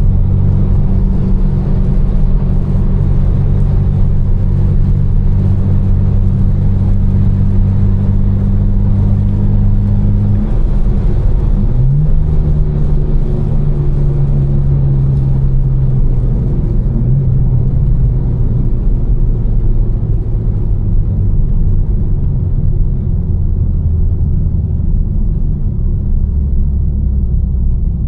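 Tuned BMW M4's twin-turbo straight-six cruising at a steady low drone over tyre hiss on a wet road. About twelve seconds in the engine note changes pitch, and it changes again a few seconds later. The hiss grows fainter in the second half.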